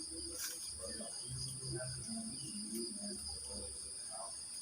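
A cricket chorus chirring continuously, heard as two steady high-pitched tones. Under it are irregular low sounds and a few faint short calls.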